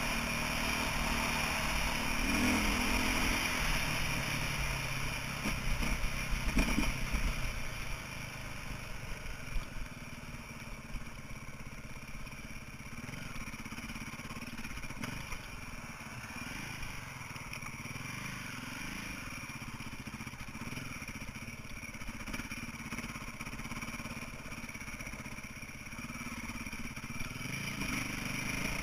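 2008 KTM 450 EXC's single-cylinder four-stroke engine running as the dirt bike is ridden, the revs rising and falling. It is louder for the first several seconds, then runs lower and steadier.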